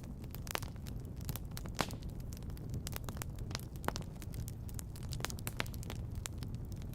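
Wood fire in a fireplace crackling: irregular sharp pops and snaps over a steady low rumble of the flames, with a few louder pops about a second and a half in, near two seconds, and near four seconds.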